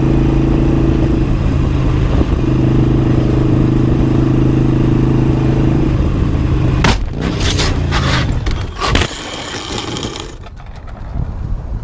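A steady droning tone, then a car crash about seven seconds in: several loud impacts over a couple of seconds, with scraping and clatter.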